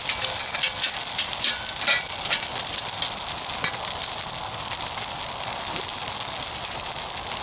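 Burgers sizzling on the grill of a wood-burning camp stove, a steady frying hiss, with a run of sharp crackles and clicks in the first couple of seconds.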